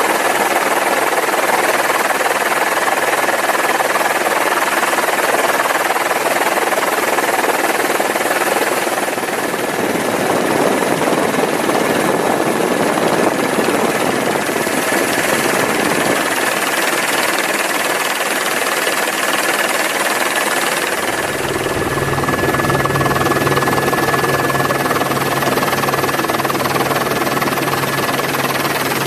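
Steady, loud machine drone with a constant high whine; about two-thirds of the way through, a low steady hum joins in.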